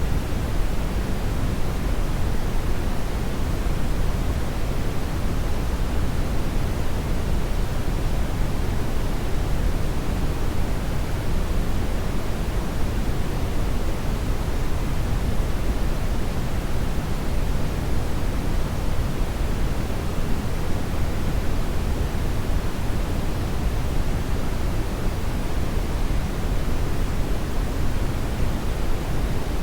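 Hair dryer running steadily, a continuous even noise of blown air that is heaviest in the low end and never changes.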